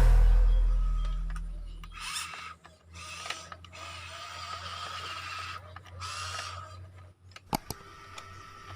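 Backing music fades out, then the small electric motors and plastic gearboxes of a Huina 1593 remote-control excavator whine in short runs with brief pauses between them. A few sharp clicks come near the end.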